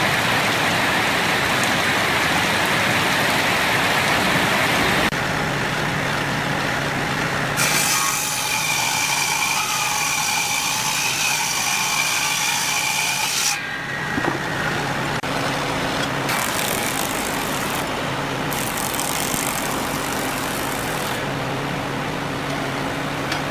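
Homemade motor-driven wood lathe running, with a turning tool cutting the spinning wood: a steady motor hum under noisy cutting. The sound changes abruptly several times, and for a stretch in the middle a high whine joins it.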